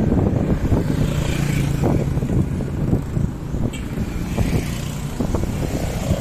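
A motor vehicle's engine running close by on the road, a steady low hum in the middle few seconds, over a rough rumble of road and wind noise.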